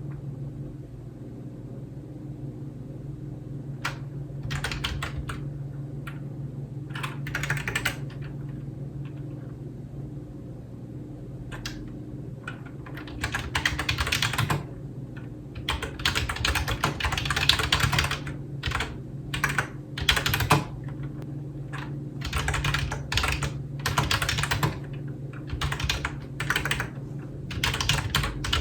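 Typing on a computer keyboard: short scattered runs of keystrokes at first, then quick, continuous typing from about halfway through. A steady low hum lies underneath.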